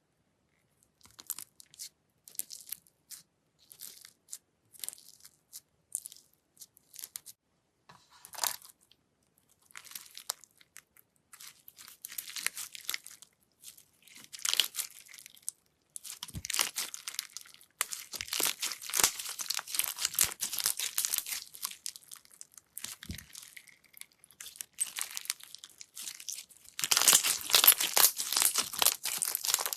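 Slime being pressed and worked by hand close to the microphone, giving crackling, crunchy sounds. At first these come in short, separate bursts; after about halfway they grow into longer, denser runs of crackling, loudest near the end.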